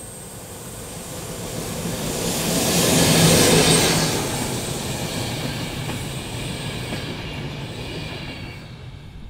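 Passenger train hauled by an HŽPP series 1141 electric locomotive passing by on overhead-wired track. The sound builds to its loudest about three seconds in as the locomotive goes past, then the coaches' wheels rolling on the rails fade slowly away.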